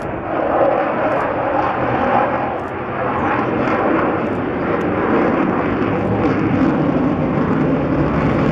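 Avro Vulcan XH558 bomber's four Olympus turbojet engines, a loud, steady jet noise from the aircraft flying past.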